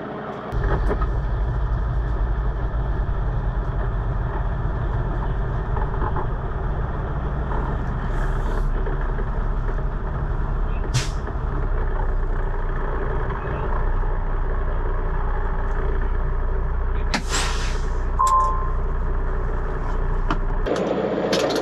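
Semi truck's diesel engine and road noise heard from inside the cab, a steady low rumble while driving. About 17 seconds in there is a short hiss of air, followed by a brief beep.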